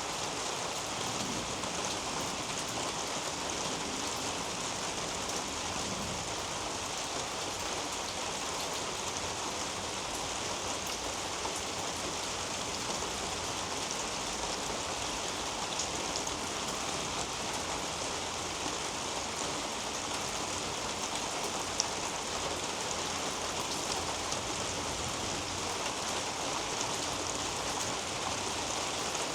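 Steady rain falling on a roof above and pattering on leaves and soil, an even hiss with fine drop ticks throughout and one sharper drip about 22 seconds in.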